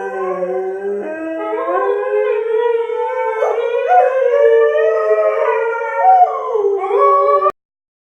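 Three dogs howling together, their overlapping pitches sliding up and down against each other; the howling stops abruptly near the end.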